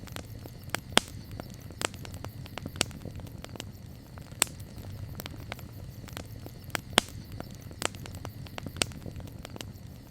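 Campfire burning: wood crackling with a dense, irregular patter of small snaps and several louder pops, over a steady low rumble.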